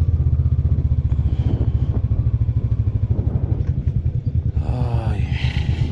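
Royal Enfield Classic 500's single-cylinder engine running steadily under way, with a fast, even beat of exhaust pulses.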